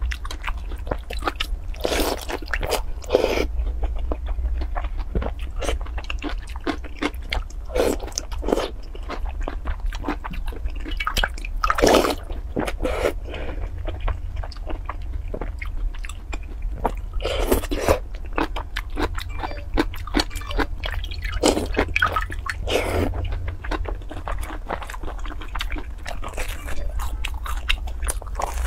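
Close-miked chewing and biting of fried dough sticks, some soaked soft in a milky liquid, with wet mouth sounds and louder bites every few seconds. A steady low hum runs underneath.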